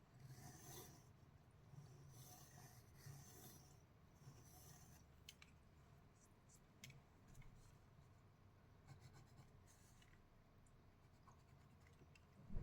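Faint strokes of a drawing tool scratching across paper: a few short bursts of sketching in the first four seconds, then sparse light ticks and taps, with a single louder knock at the very end.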